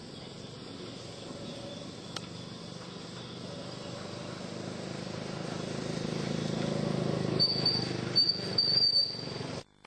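A low engine hum that grows steadily louder, with short bursts of a high shrill chirping near the end.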